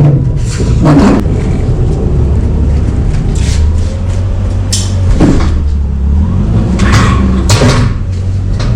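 Semi truck's diesel engine running with a steady low rumble, with several short, sharp noises over it.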